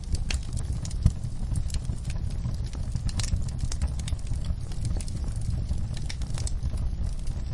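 Wood fire crackling: irregular sharp pops and snaps over a steady low rumble, with one louder pop about a second in.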